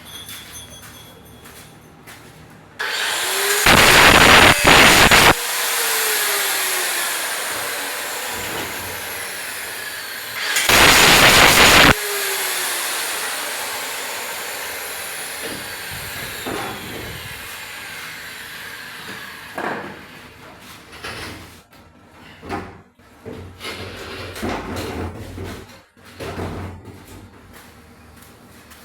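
An electric power tool motor in metalwork runs twice. Each time there is a loud burst of cutting or grinding, after which the motor is let off and winds down with falling pitch, trailing into a long fading hiss. It is followed by scattered knocks and clatter.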